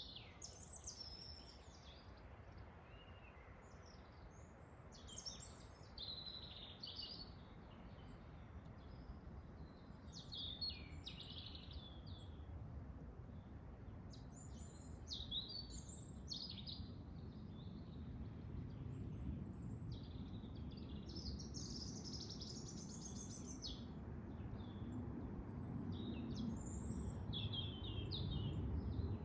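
Songbirds singing and chirping in short high phrases, one after another throughout, over a low rush of wind that grows louder in the second half.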